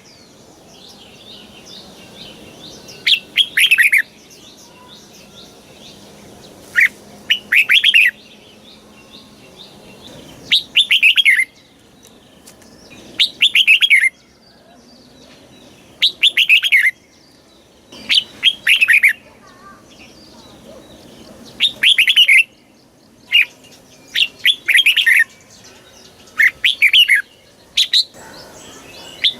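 Red-whiskered bulbul singing: short, bright phrases of quick falling notes, each about a second long, repeated every two to three seconds.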